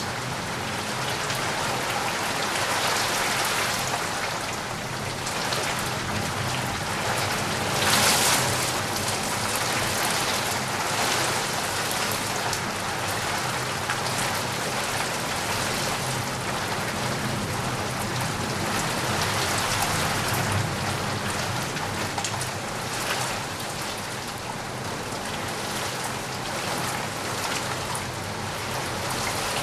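Rain falling steadily as an even hiss, with a brief louder surge about a quarter of the way in.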